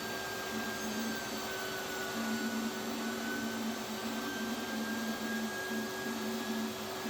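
Table saw blade spinning freely on its arbor because the arbor nut has come loose: a steady mechanical whir with a high, slightly wavering whine over it.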